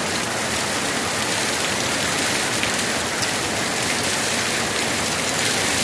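Heavy rain pouring down steadily: a dense, even hiss of rain with a few separate drop ticks.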